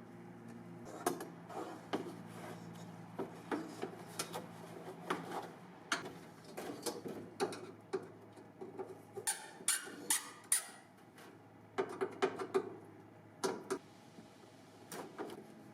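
Scattered light clicks, taps and knocks of hand work, like parts and tools being handled during cleanup of an old pickup truck, with a few short hisses a little past the middle. A faint low hum stops about nine seconds in.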